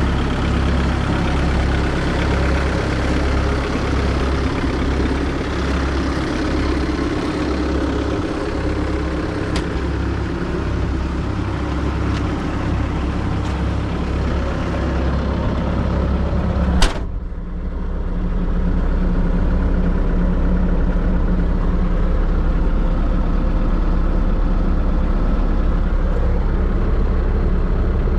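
2003 Bobcat S160 skid steer's diesel engine running steadily, with a low, even drone. About two-thirds of the way through there is one sharp click, after which the engine note changes and runs a little louder.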